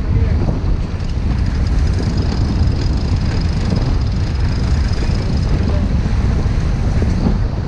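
Wind buffeting the microphone aboard a sailboat under way, a steady low rumbling noise. A faint high steady tone sits above it from about a second in until a little before the end.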